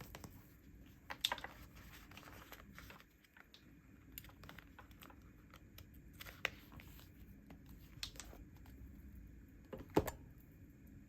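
Stickers being peeled from a sticker sheet and the sheets handled: soft paper rustles, crinkles and light clicks, with a sharper click about a second in and another near the end.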